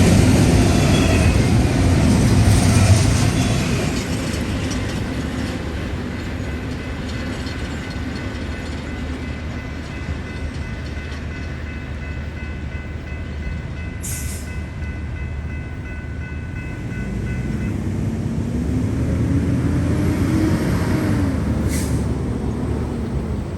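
Freight train cars rolling past on the rails, loud for the first few seconds and then a quieter steady rumble. Around twenty seconds in the sound swells again, with a tone that rises and then falls.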